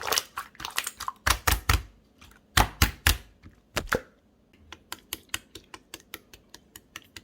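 Jelly-textured slime being pressed and stretched by hand, giving sharp sticky crackles and small air-bubble pops; louder clusters in the first half, then a run of lighter clicks about three or four a second.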